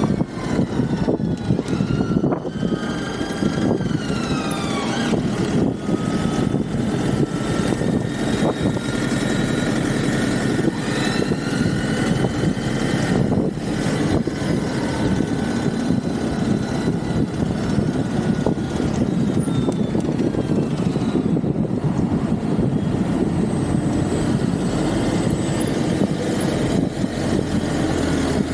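Riding noise from an e-bike with a Bafang BBSHD 1000 W mid-drive: a steady rushing rumble of wind and road, with a whine that rises and falls in pitch as the motor speeds up and slows.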